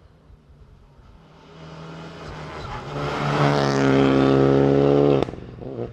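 Rally car engine at high revs coming closer, growing steadily louder over a few seconds to a loud peak, then cut off abruptly just after five seconds in.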